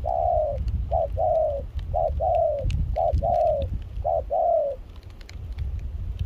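Spotted dove cooing: five two-part phrases about a second apart, each a short note followed by a longer, falling coo, over a steady low rumble.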